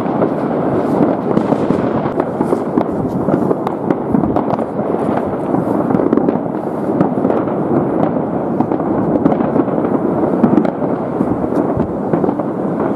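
Many fireworks going off at once across a city, their bangs and crackles overlapping into a steady din with no single blast standing out.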